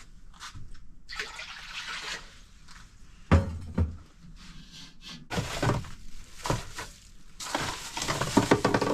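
Water running and splashing in several spells of a second or two, as in rinsing or washing at a small sink, with a couple of knocks from handling things.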